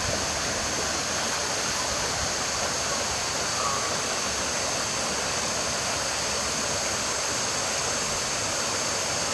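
Steady rush of running water from a creek, even and unbroken, with a faint short chirp about midway.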